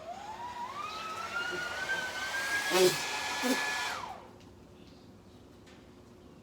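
Handheld blow dryer switched on, its motor whine rising in pitch as it spins up over a couple of seconds, then running steadily with a rush of air before winding down when switched off about four seconds in. Two brief louder sounds break in around three and three and a half seconds in.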